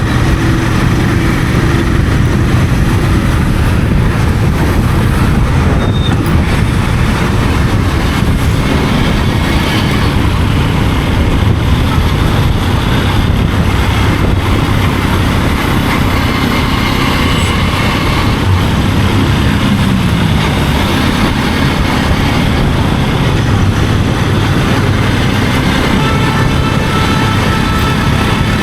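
Royal Enfield GT 650 parallel-twin engine running through its stock exhaust while riding at a steady throttle, with a brief drop in engine note about twenty seconds in.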